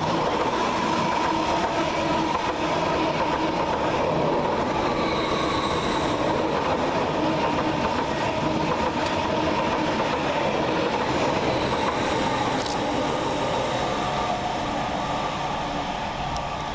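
Class 745 Stadler FLIRT electric multiple unit running past on the rails: a steady wash of wheel and traction noise with a faint whine, easing off near the end.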